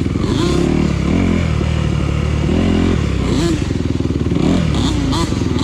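Dirt bike engine running at idle with repeated short throttle blips, the pitch rising and falling about once a second.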